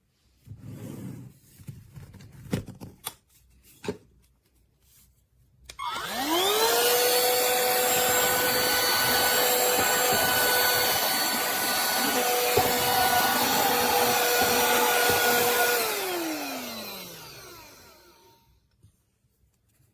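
Bissell AeroSlim cordless handheld vacuum: a few handling clicks, then the motor is switched on about six seconds in, its whine rising quickly to a steady high pitch. It runs for about ten seconds, then is switched off and winds down over a couple of seconds.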